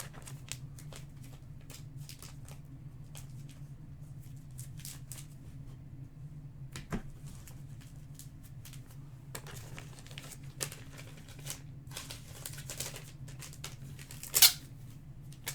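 Trading-card packs and cards being handled: scattered soft clicks and rustles of cards and pack wrappers, with a sharper snap about seven seconds in and a louder one near the end, over a steady low hum.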